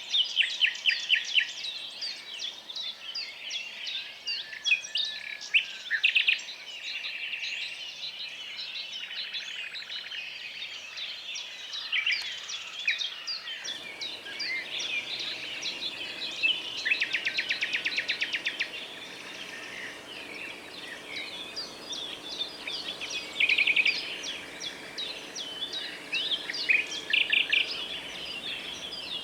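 Several songbirds singing and calling at once: overlapping chirps and quick repeated trills. About halfway through, a faint steady hiss rises underneath.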